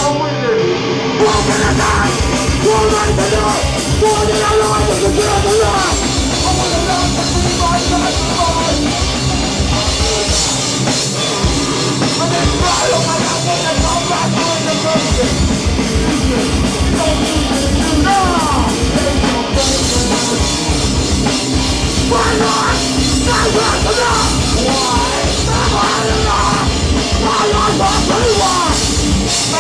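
A hardcore band playing a song live, loud and continuous: distorted guitars and drums with yelled vocals.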